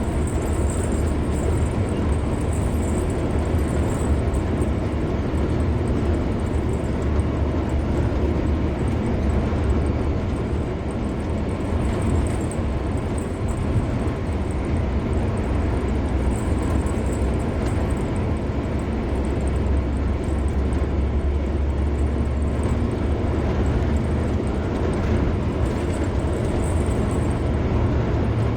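Steady road noise of a car driving at speed on a highway: an even rumble, strongest in the low end, that barely changes throughout.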